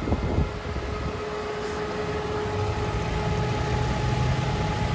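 Lexus GX 550's twin-turbo V6 idling with the hood open: a steady low hum with a faint whine over it.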